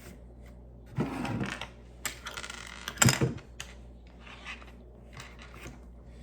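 Small plastic Lego pieces being handled and rummaged, with rustling and rubbing and a sharper knock about three seconds in, then a few faint clicks.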